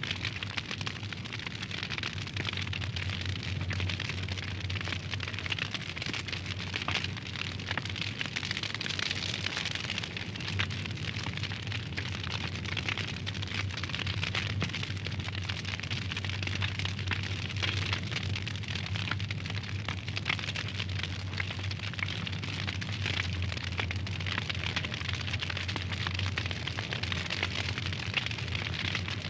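Wood fire crackling, with many small irregular pops and snaps throughout over a steady low hum.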